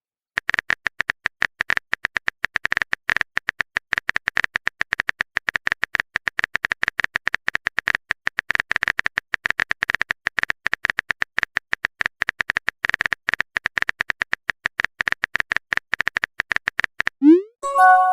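Rapid phone-keyboard typing clicks from a chat app's typing sound effect, many taps a second, running on for most of the stretch. Near the end a short rising swoop and a brief chime, a message-sent alert.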